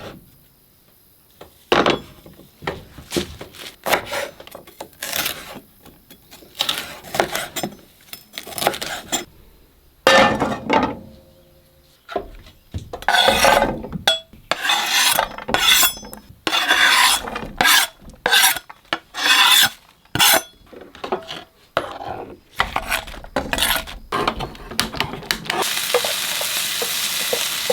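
Kitchen work at a stove: a string of short scrapes and clatters of utensils against pans, then near the end food starts sizzling in a hot pan.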